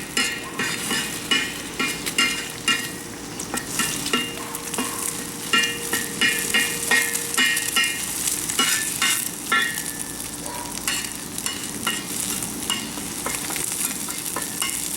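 An egg frying and sizzling in oil in a hot carbon steel wok, with a spatula repeatedly scraping and stirring against the wok.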